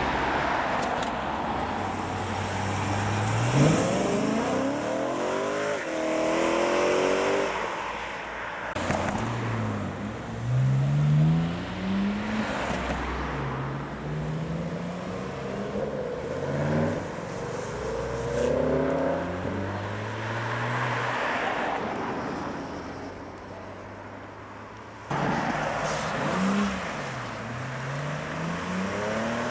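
Several modified BMW cars driving off in turn, their engines revving and accelerating. The engine note climbs and drops again and again through gear changes.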